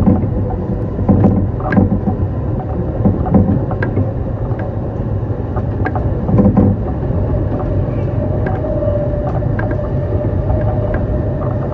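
Musashino Line electric train running along the line, heard from the front of the leading car: a steady rumble with a faint steady hum and irregular clicks and knocks from the wheels and track.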